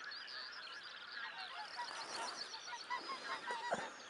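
A large flock of wild geese calling: a dense chorus of many overlapping short, high honking calls.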